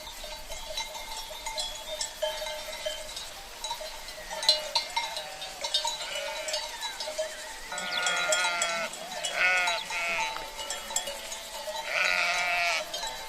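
Sheep bleating, with several wavering bleats from about halfway on, over continual clinking and ringing of the flock's cencerros (livestock bells).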